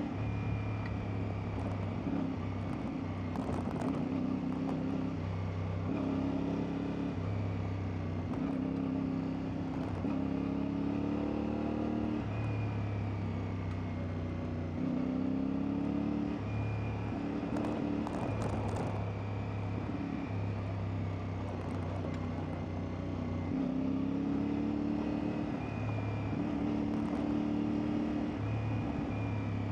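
CFMoto 450MT's parallel-twin engine running under way on an off-road ride, its pitch rising and falling with the throttle, with a few brief clicks from the bike or the trail.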